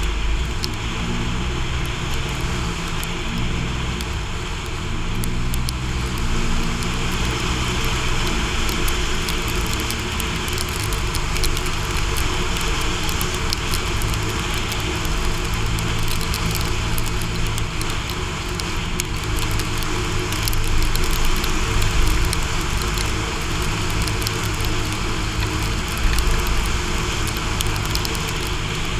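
4x4 vehicle's engine running as it drives over desert sand. The engine pitch rises and falls during the first several seconds, then runs steadier. Heavy wind noise on the exterior-mounted microphone, with scattered crackling ticks, sits over the engine.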